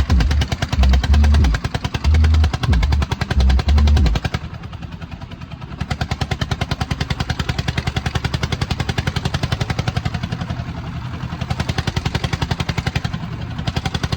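Tractor diesel engine running with a rapid, even putter. For the first four seconds heavy low thumps sound over it; after that only the engine is heard.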